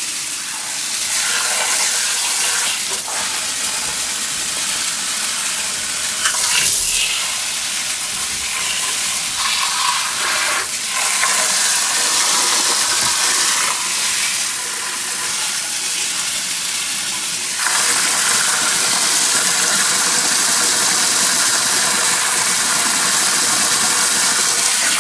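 Garden hose spraying water into a sump pit, a steady hiss of water, with the faint steady hum of the running sump pump under it. The spray gets louder about two-thirds of the way through.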